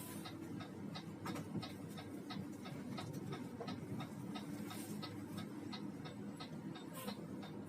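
Even, rapid ticking, about three ticks a second, over the steady low drone of a Mercedes-Benz O500RS coach heard from inside the cabin.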